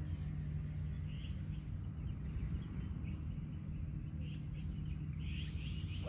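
Short bird chirps every second or so, coming more often near the end, over a steady low outdoor rumble.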